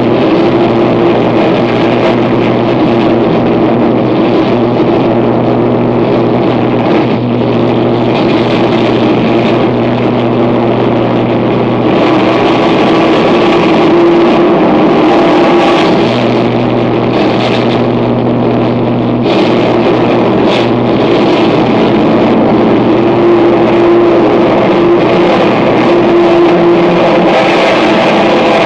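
Harsh noise music: a loud, dense wall of distorted noise over steady low droning tones that drop out for a few seconds and come back.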